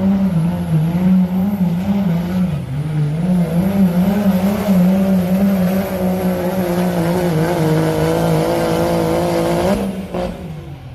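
Diesel truck engine running hard under load as it pulls the weight sled, its pitch wavering up and down, then dropping off abruptly about ten seconds in as the engine lets off.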